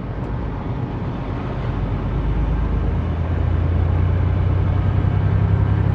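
Semi truck's diesel engine running under way with a steady low drone and road noise, growing louder about halfway through as it pulls harder.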